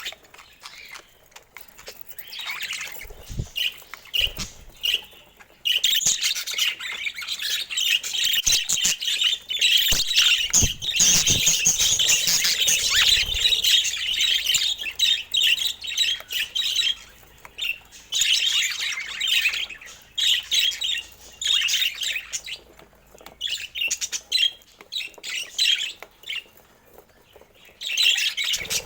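Budgerigars chirping and chattering in bursts, with quieter gaps between them. A few low knocks come in among the chirps near the start and again about a third of the way in.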